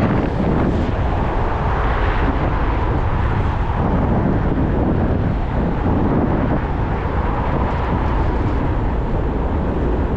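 Steady rushing wind on the microphone of a moving bicycle, with a low rumble of road and traffic noise underneath.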